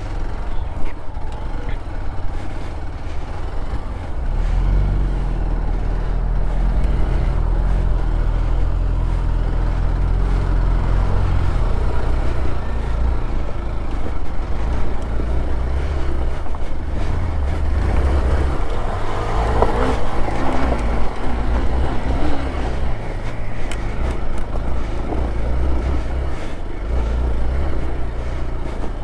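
Vehicle engine running under load on an off-road climb, its pitch and level rising and falling as the throttle is worked, growing stronger about four seconds in.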